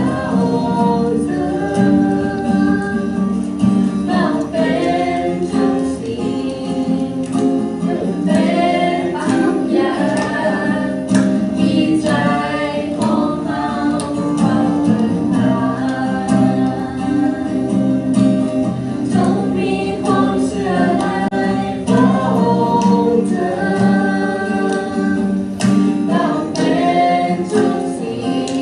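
A group of voices singing a worship song together, accompanied by strummed guitar.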